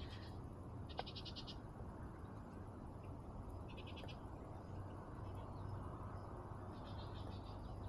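Short, high, rapidly pulsed trills from a small animal, each about half a second long, repeating every one to three seconds over a faint steady outdoor background, with a single sharp click about a second in.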